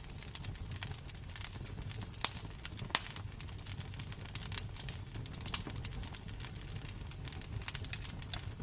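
Wood fire crackling in a fireplace: a steady stream of irregular small snaps, with two louder pops a little after two seconds and about three seconds in, over a low steady rumble.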